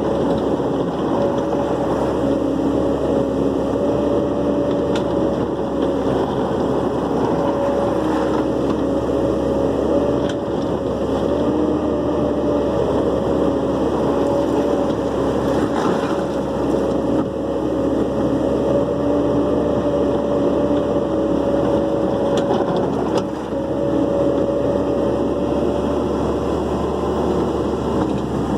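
Dump truck engine running steadily, with a steady whine over its low rumble.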